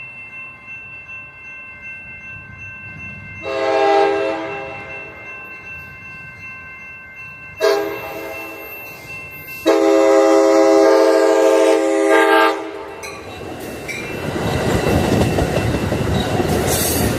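Approaching passenger train's multi-chime air horn sounding three blasts, long, short, then long, in a grade-crossing warning pattern. The train then passes close by, its rumble and wheel noise rising toward the end.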